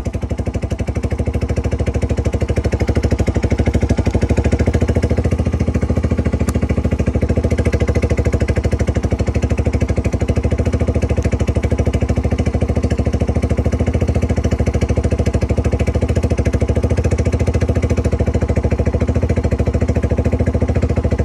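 Suzuki GN125H's single-cylinder four-stroke engine running steadily with an even, rapid exhaust beat, getting slightly louder over the first few seconds.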